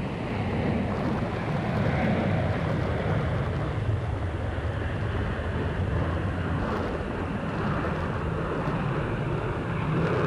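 Jet airliner engines at takeoff power on a departure, heard from a distance as a steady low rumble.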